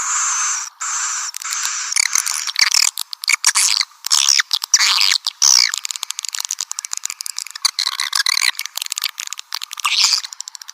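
Swiftlet lure call: a recording of edible-nest swiftlets twittering, with dense chirps, short pitch glides and fast clicking trills, all high-pitched with no low end. It is the kind of call played to draw swiftlets into a nesting house.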